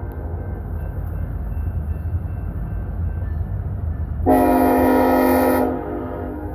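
Steady low rumble of a diesel freight train running, with one blast of about a second and a half on the lead locomotive's Nathan K5LLA five-chime horn about four seconds in.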